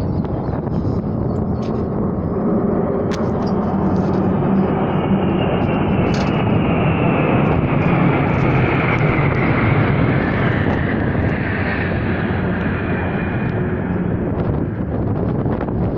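Military jet aircraft flying over. The engine noise swells to a peak about halfway through and then eases off, with a high whine that falls steadily in pitch as the jets pass.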